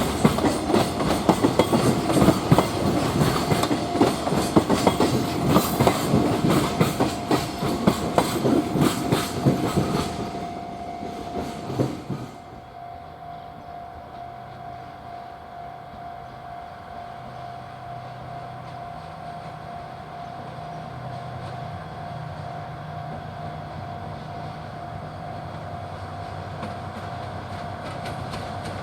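Freight train wagons clattering past over the rail joints. The clatter dies away about ten to twelve seconds in, leaving a quieter low hum. A steady tone runs throughout.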